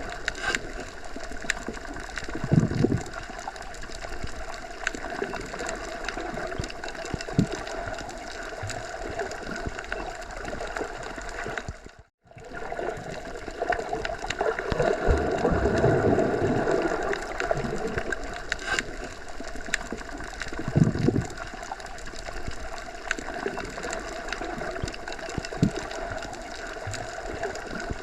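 Looped forest nature ambience: a steady rushing wash, either wind through trees or running water, with occasional low swells. It cuts out completely for a moment about twelve seconds in, then resumes.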